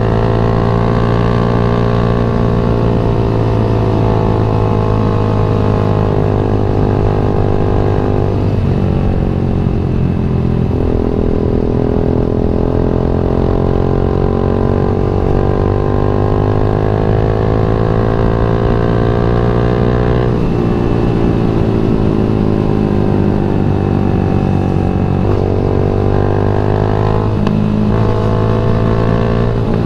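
Yamaha MX King 150's single-cylinder four-stroke engine running under way on the road, its pitch falling and then climbing again through the revs several times, about 9, 20 and 25 seconds in.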